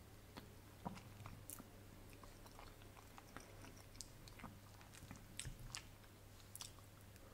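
Faint close-miked chewing of soft ravioli in tomato sauce, with scattered small wet mouth clicks over a steady low hum.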